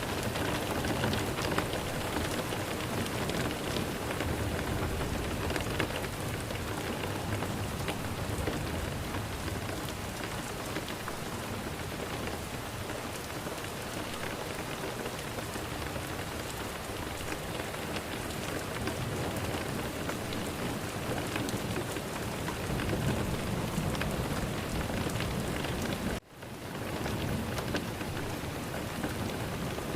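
Recorded steady rain falling hard, with a low rumble of thunder swelling a little past the middle. Near the end the rain cuts out abruptly for a moment and fades back in, like a loop point in the rain track.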